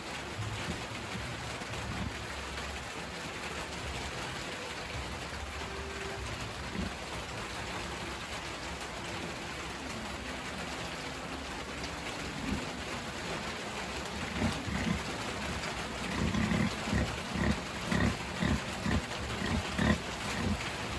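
Pig grunting over a steady hiss. In the last few seconds the grunts become a regular series of low grunts, about two a second, growing louder.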